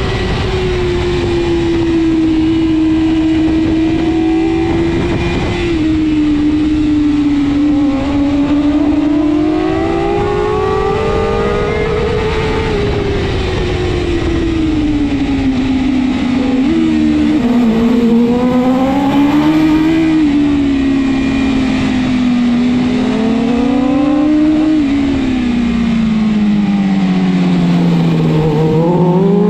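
BMW S1000RR superbike's inline-four engine at racing speed, its revs swinging up and down through the corners. The pitch falls over the last few seconds and starts climbing again right at the end.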